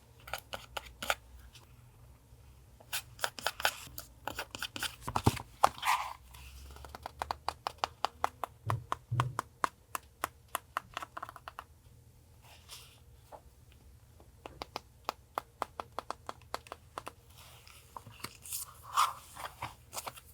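Paper being handled at a desk for journal collage: crinkling, scratching and tearing, with quick runs of small sharp clicks.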